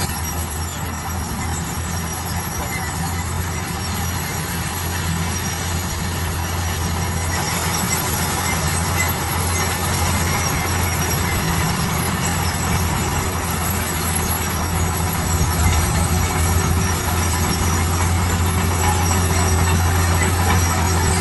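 Heavy diesel construction machinery running steadily: a constant low engine drone under an even mechanical hiss and rumble.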